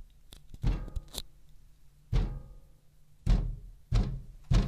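Heavy, irregular banging on a window from outside, about six dull knocks in under five seconds, each with a short ringing decay.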